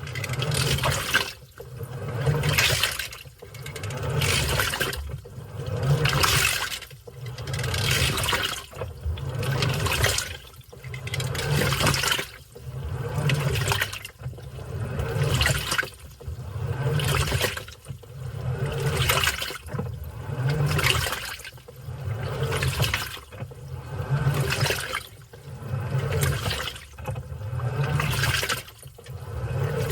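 Washing machine in its wash cycle, churning clothes in water: the motor drives the load back and forth, and the water swishes in regular surges about every two seconds, each with a low motor hum.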